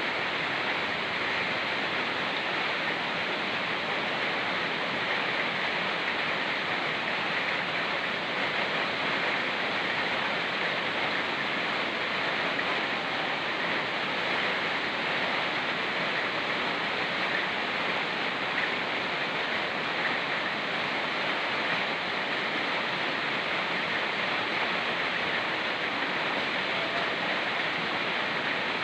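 A fast-flowing mountain river rushing steadily, mixed with falling rain, in an even, unbroken hiss.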